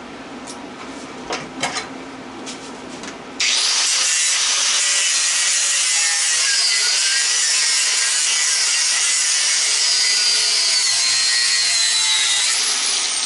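A few light clicks and taps, then about three seconds in a power grinder bites into metal on a scrap electric motor: a loud, steady, high-pitched grinding whose whine drifts with the load. Near the end it comes off the work and the whine falls away as it spins down.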